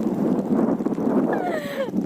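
Strong wind buffeting the microphone in the rain, a continuous rough rush. Near the end, a short pitched call glides downward through it.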